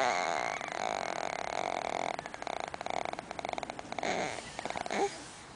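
A baby making breathy, raspy throat noises with a rapid creaky rattle, as the tail of a high squeal fades at the start; a short faint squeak rises and falls near the end.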